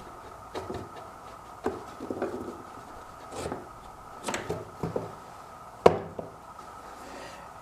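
Handling noises: scattered knocks, clatter and rubbing, with one sharp knock about six seconds in, over a faint steady high tone.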